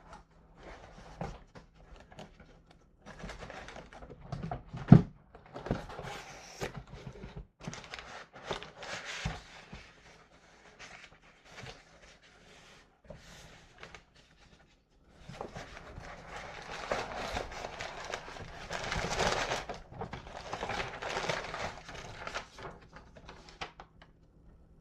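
Package being handled and opened: scattered knocks and scrapes of cardboard and plastic, a sharp thump about five seconds in, and a longer stretch of rustling in the last third.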